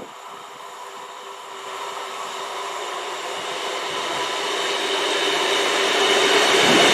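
A train approaching along the line, growing steadily louder, with a steady whine over the running noise. Near the end its tone drops in pitch as it draws level.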